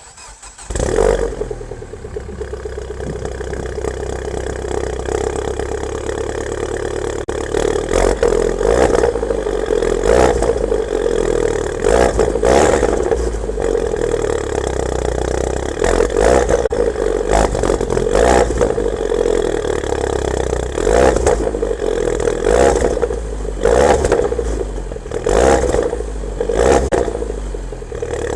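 2007 Mini Cooper S (R56) turbocharged 1.6-litre four-cylinder breathing through a full Milltek aftermarket exhaust, very loud. It fires up with a flare about a second in, then idles with a string of short throttle blips every second or two.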